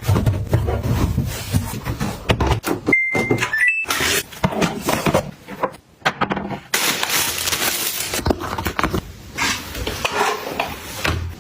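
Household items being handled and set down: a run of clicks, knocks and rustling, with stretches of hissing noise. A short steady high tone sounds about three seconds in, followed by two brief higher tones.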